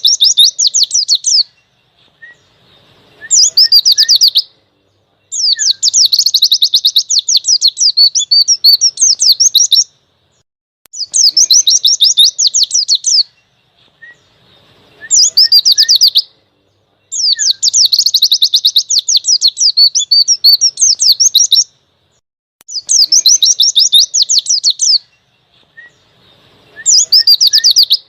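Pleci (white-eye) singing loud, rapid chattering phrases of fast high chirps, each phrase lasting one to four seconds with short pauses between, in the full 'ngalas' song used as a tutor recording for young birds.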